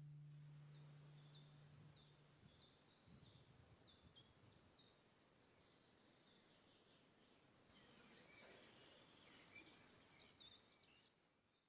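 Faint birdsong: a quick run of short, falling chirps, then scattered calls near the end. A low held music note fades out in the first two seconds.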